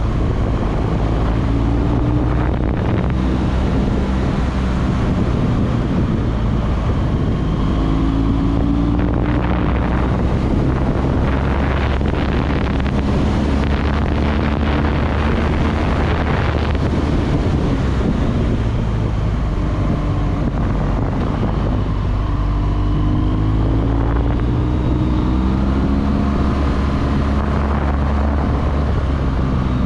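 BMW R1200GS Adventure's boxer-twin engine running as the motorcycle rides along, its note rising in pitch several times, with wind rushing over the microphone.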